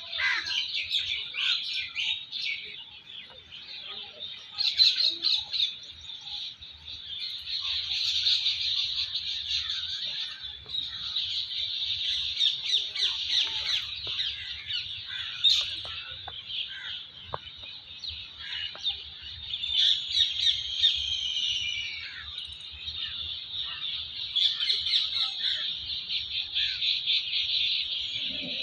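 Many birds chirping and singing at once, a dense chorus of overlapping short calls and gliding notes.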